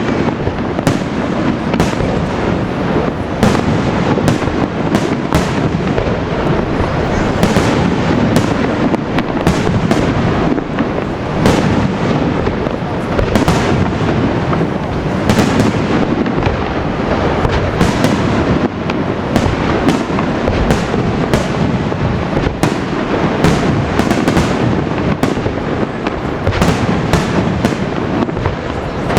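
Fireworks display in full swing: a dense, unbroken run of shell bursts and crackling, one bang after another with a rumbling echo beneath.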